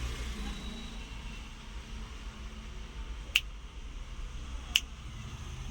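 Two sharp clicks about a second and a half apart, over a low steady hum.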